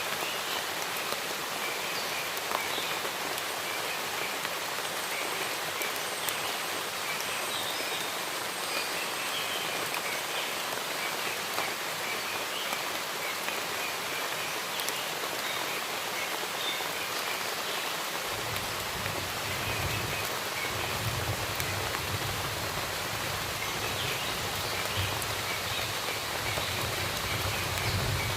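Steady rain falling in a forest, with short bird chirps scattered through it. About two-thirds of the way in, a low rumble comes in underneath the rain.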